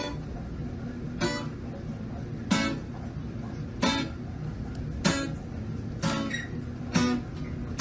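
Music: a strummed guitar, one chord about every second and a quarter, over a steady low hum.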